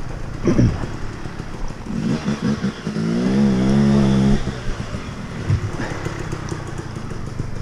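Dirt bike engine running, revved up about two seconds in with a wavering pitch, then eased back about four seconds in to a rough steady run.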